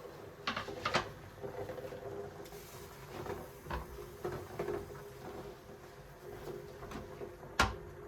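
Light clicks and knocks of household objects being handled and set down, several in quick succession near the start and a sharper knock near the end, over a faint steady hum.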